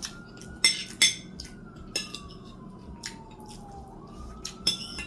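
A distant emergency-vehicle siren wailing, slowly rising, falling and rising again. Several sharp clicks and clinks of cutlery and dishes are heard over it.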